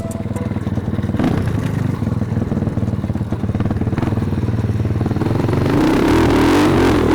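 Small single-cylinder pit bike engine running with a rapid pulsing beat, growing louder and harder from about six seconds in as it is revved.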